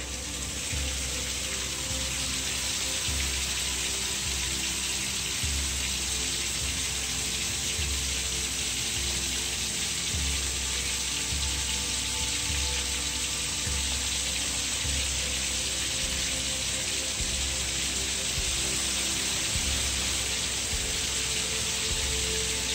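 Heavy rain pouring steadily, a dense even hiss of downpour, with a low pulse recurring about every second and a half underneath.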